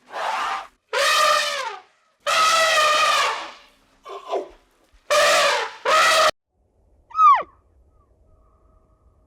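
Young livestock bleating: six high, wavering bleats in quick succession, then about seven seconds in a short call that drops steeply in pitch.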